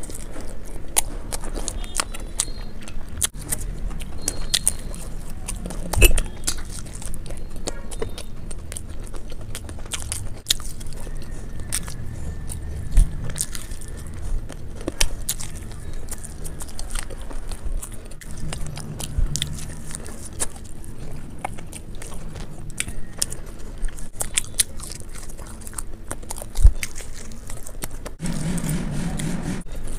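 Close-miked eating: a person biting and chewing fried momo dumplings, with many small wet mouth clicks and smacks and a few louder bites.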